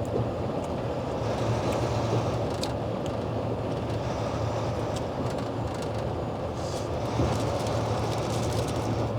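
Steady drone of a semi-truck's engine and road noise heard inside the cab while cruising on the highway, with faint light ticks scattered through it.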